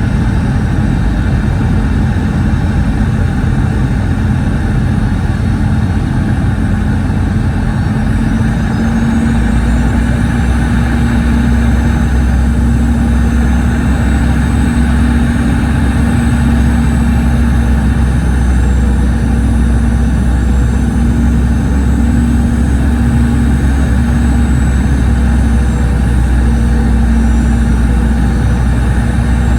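Cabin noise of a Boeing 717 heard from a rear window seat: the rear-mounted Rolls-Royce BR715 engines run steadily with a hum, then about nine seconds in a faint high whine rises and a deeper rumble comes in and holds.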